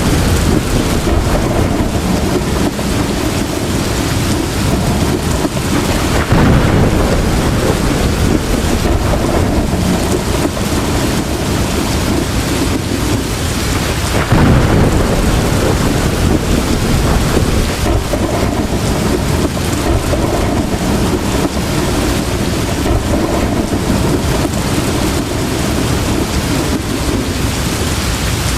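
Heavy rain falling steadily, with rolling thunder rumbling underneath; the thunder swells louder about six seconds in and again about fourteen seconds in.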